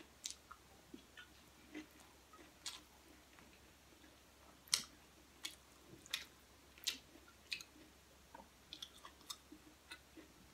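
A person chewing a mouthful of food close to the microphone, with many short, sharp, irregular clicks from the mouth and utensil. The loudest clicks fall about halfway through.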